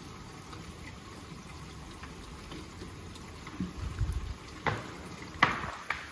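Ice-laden tree branches cracking under the weight of the ice: a steady hiss, then several sharp snaps and cracks in the last second and a half.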